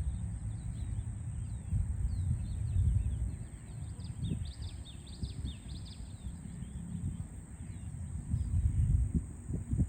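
Small birds chirping, many short high falling chirps that come thickest in the middle, over a steady low city rumble that swells twice.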